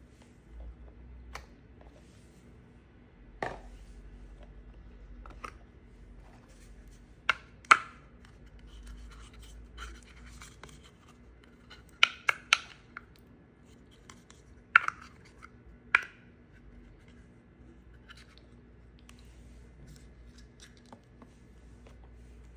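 Soap being cut: a scattered series of sharp, crisp cuts and cracks, about a dozen, the loudest pairs around the middle, with faint scraping between them.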